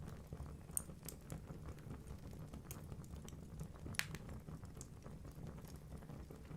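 Wood fire burning in a fireplace, crackling: scattered small pops and snaps over a low steady rumble, with one sharper pop about four seconds in.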